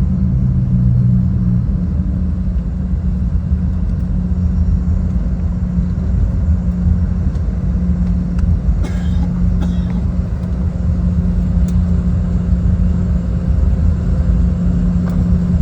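Cabin noise inside a Boeing 717-200 taxiing: a steady low rumble with the hum of its rear-mounted Rolls-Royce BR715 engines at low power. One of the hum tones drops out about two seconds in, and a few faint clicks come around the middle.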